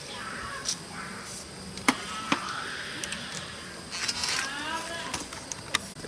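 Wood campfire crackling, with a few sharp loud pops from the burning wood.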